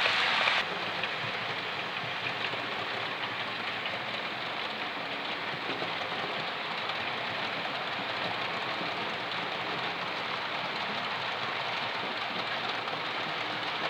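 Model train running on a layout's track, a steady hiss of wheels and motor. A louder hiss cuts off suddenly about half a second in.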